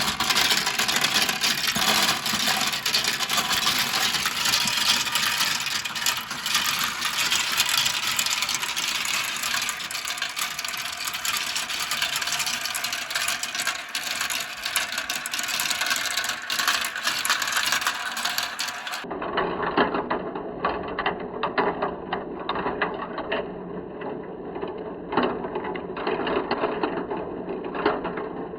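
Many marbles rolling and clattering down a plastic Kumikumi Slope marble-run track, a dense continuous rattle of small clicks. About two-thirds of the way through it switches abruptly to a duller-sounding stretch of the same rattle.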